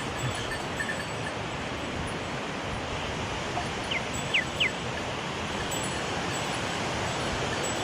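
Mountain stream rushing steadily, with three quick, falling whistled bird notes about four seconds in.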